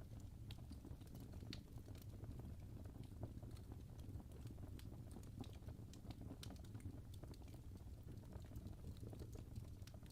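Faint fire crackling: small irregular pops and snaps over a low, steady rumble.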